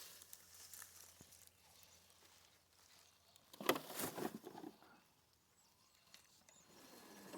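Quiet outdoor ambience, broken about three and a half seconds in by a second-long burst of crunching and scraping on creek-bed rock and gravel.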